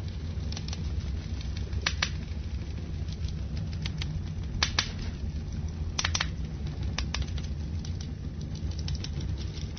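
Wood fire burning in a fireplace: a steady low rumble of flames with irregular sharp pops and crackles, the loudest about two, five and six seconds in.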